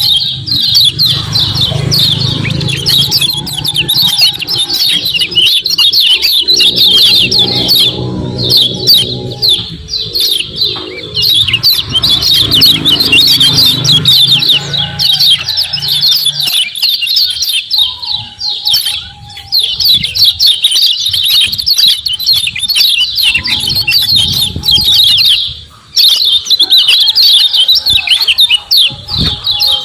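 Kecial kuning white-eye (pleci) calling in long runs of rapid, high 'ciak ciak' chirps, with short breaks about halfway and again a few seconds before the end. A low rumble runs underneath in the first half.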